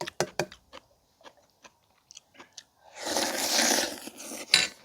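Close-up crisp crunching and chewing of kimchi, with sharp bites in the first second. About three seconds in there is a second-long noisy rush, and a sharp click comes near the end.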